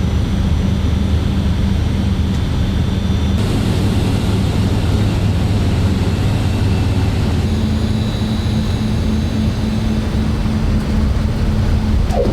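Steady drone of the C-130J Super Hercules' four turboprop engines and propellers, with a deep hum under a broad rushing noise. The tone shifts slightly about seven seconds in.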